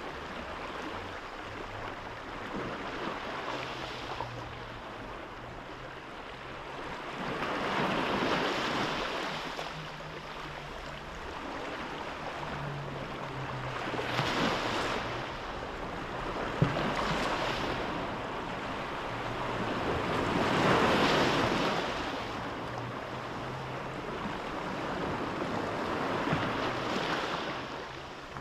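Sea waves washing against the shore, swelling and falling back about every six seconds, over a faint low hum. There is one sharp click about two-thirds of the way through.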